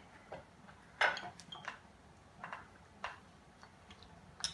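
Scattered light clicks and taps, about half a dozen spread irregularly, the loudest about a second in: handling noise on the recording device while it is being set up.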